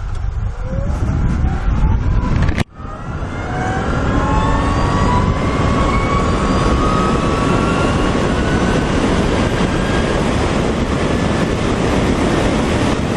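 LITO SORA electric motorcycle's motor whining, its pitch rising as the bike accelerates and then levelling off at speed, under heavy wind rush on the microphone. The sound drops out briefly about two and a half seconds in.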